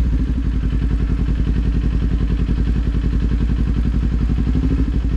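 Kawasaki Z400's parallel-twin engine idling steadily, with an even low pulse and no revving.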